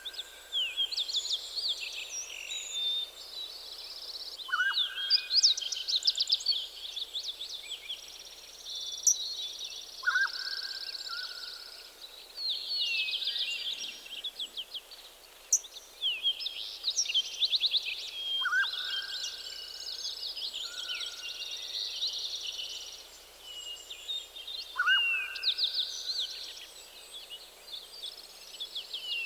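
Several songbirds singing at once in a forest dawn chorus, with quick high trills and chirps throughout. Every few seconds a lower whistled call rises and then holds.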